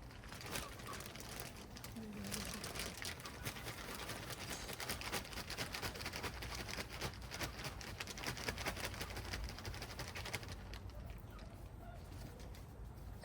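Close crackling and scraping of hands and tools working in garden soil and plants, which eases off near the end. A bird calls briefly in the background.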